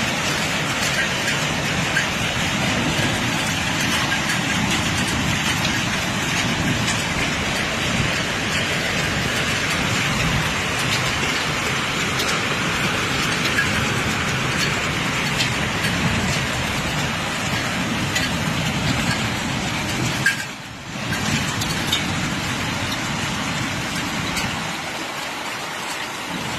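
Steady rain falling, with a low rumble of motor vehicles running on wet roads. The sound drops out briefly about twenty seconds in.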